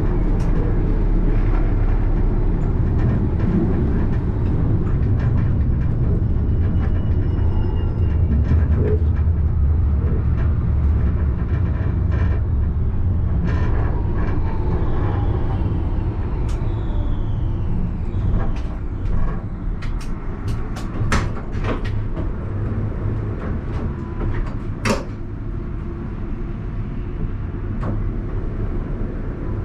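Alstom Citadis tram running with a steady low rumble; about halfway through, its motor whine falls in pitch as it slows. The rumble then drops away, and a series of sharp clicks and knocks follows.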